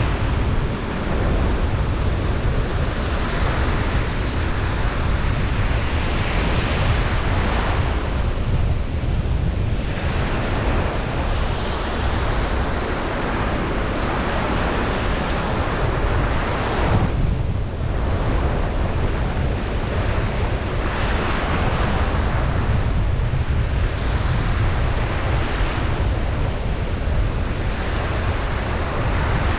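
Ocean surf on a beach, waves washing in one after another over a steady low rumble, with wind on the microphone.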